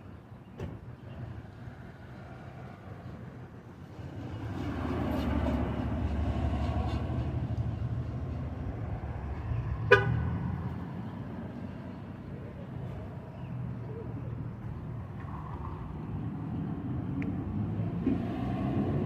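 Street traffic passing, growing louder a few seconds in, with one short car horn toot about ten seconds in.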